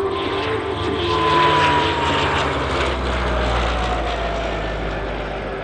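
De Havilland Canada Dash-8 twin-turboprop flying past, its engines and propellers making a steady noise with a tone that falls in pitch as it goes by. It is loudest about a second or two in and fades slowly toward the end.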